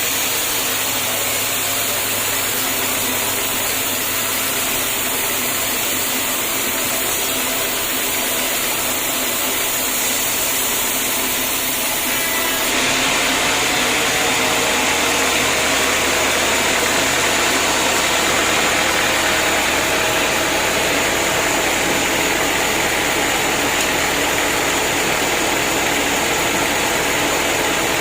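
Homemade band sawmill running steadily, most likely sawing through a hard acacia log. About halfway through, the sound abruptly turns louder and brighter and holds there.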